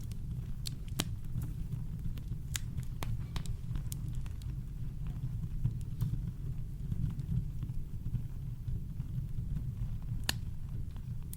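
Campfire crackling: scattered sharp pops and snaps of burning wood, one of the clearest near the end, over a steady deep rumble of brown noise.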